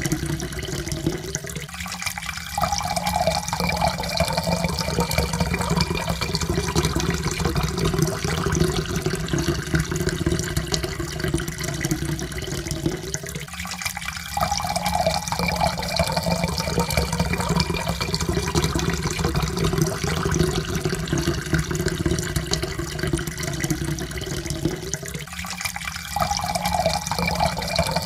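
Water pouring steadily into a cup, with a faint tone that rises slowly in pitch as the cup fills. The pour breaks off and starts again low roughly every twelve seconds, three times.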